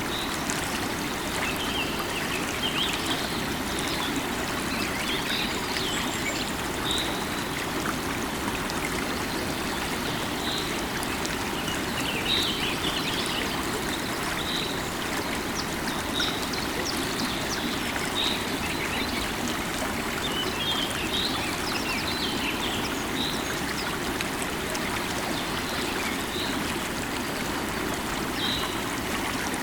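Steady rush of a flowing river, with small birds calling in short, repeated chirps over it.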